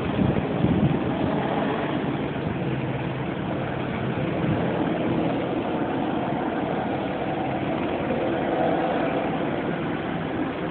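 An engine running steadily with a low hum, a little louder in the first second.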